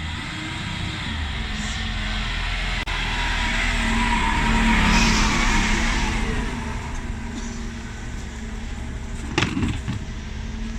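Refuse truck working at the kerb: the engine note rises, with a rushing noise that peaks about halfway and then eases off. A sharp metallic clatter comes near the end.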